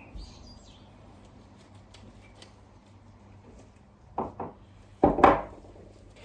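Handling clatter at a workbench: two brief knocks or scrapes of the pedal body and tools, a lighter one about four seconds in and a louder one just after five seconds, over faint birdsong.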